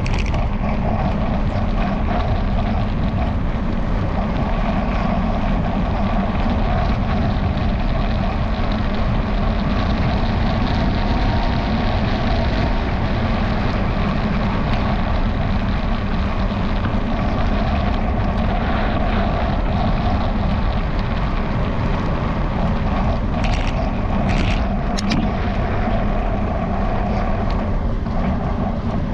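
Steady wind and riding noise picked up by a camera mounted on a moving bicycle, with the camera mount rattling throughout. A few brief sharp clicks sound about three-quarters of the way through.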